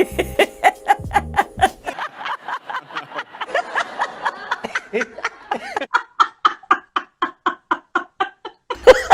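A woman laughing hard, a long run of quick repeated 'ha' sounds at about four a second.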